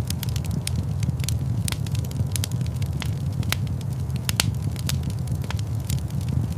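Fireplace fire crackling: a steady low rumble of burning with frequent irregular sharp pops and snaps.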